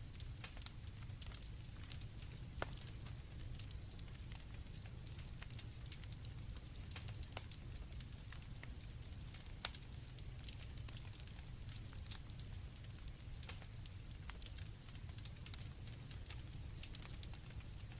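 Campfire crackling: irregular sharp pops and snaps over a low steady rumble of the flames. Crickets trill in a thin high tone over it during the first few seconds and again near the end.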